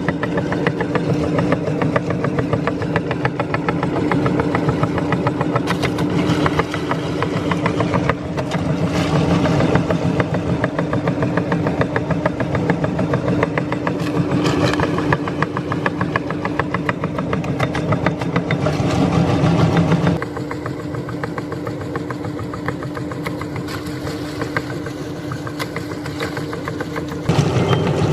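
Electric meat grinder running as it grinds bananas: a steady motor hum with fast rhythmic chatter. About twenty seconds in it turns quieter and thinner for several seconds, then comes back full near the end.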